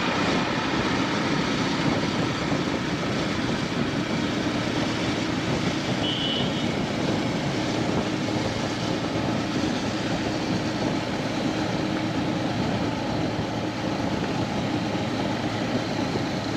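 Steady engine and wind noise from a motorcycle on the move, with the engine hum held even throughout. A brief high tone sounds about six seconds in.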